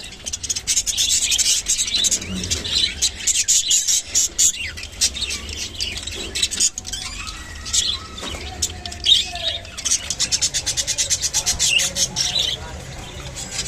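Budgerigars chirping and chattering, with runs of rapid short chirps, the fastest a second or so in and again around eight to ten seconds in.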